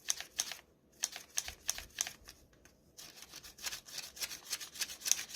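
Folded paper of an origami flapping bird being worked by tugging its tail: a series of crisp paper clicks and rustles as the wings flap, scattered at first and coming thicker and faster from about three seconds in.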